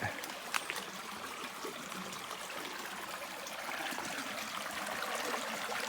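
Shallow river running over rocks, a steady rushing trickle that grows slightly louder toward the end.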